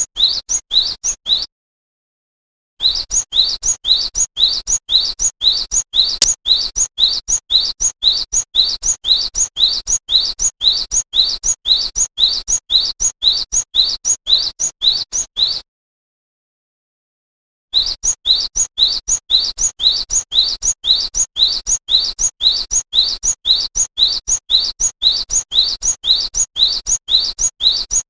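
A glatik wingko songbird giving a short, high, upward-slurred chirp over and over at an even pace of about two to three a second. The series stops abruptly twice, for a second or two each time, then resumes.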